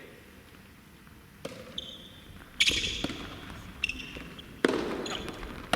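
Soft tennis rally: rackets strike the soft rubber ball in sharp hits about two seconds apart, the loudest a little before the middle and near the end. Lighter knocks of the ball bouncing fall between the hits, with short high squeaks of shoes on the indoor court floor.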